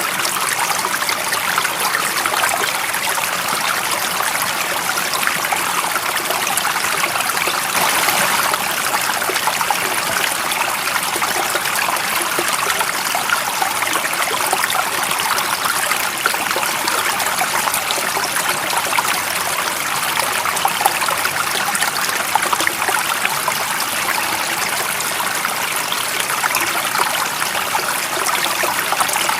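A stream of water running and trickling over rocks, a steady splashing rush that stays even throughout.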